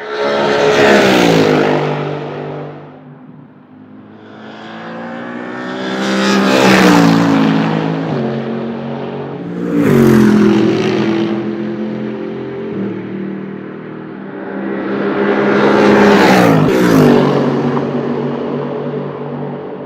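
Mercedes SLS AMG GT3 race cars with 6.2-litre V8 engines passing at speed, four times. Each pass swells to a peak and then drops in pitch as the car goes by, the last two cars close together. Engines further round the track keep running in the gaps.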